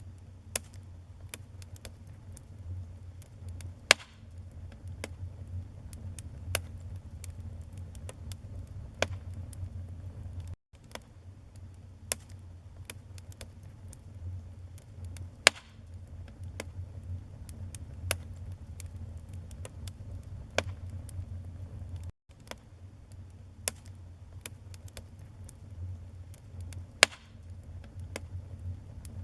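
Wood fire crackling in a fireplace: frequent sharp pops and snaps over a steady low rumble of the flames, with three louder pops spread through. The sound cuts out for an instant twice.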